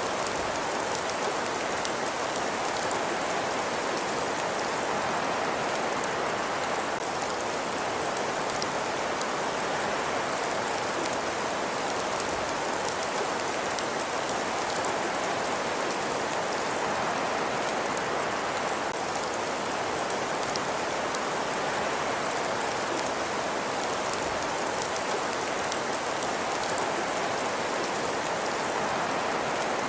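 Fireplace ambience: a steady rushing hiss with many fine crackles over it, unchanging throughout.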